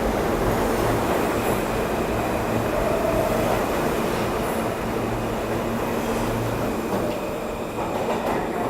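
A New York City subway train running through the station, its wheels and motors making a steady loud rumble, with a brief faint wheel squeal about three seconds in. The sound eases off gradually toward the end.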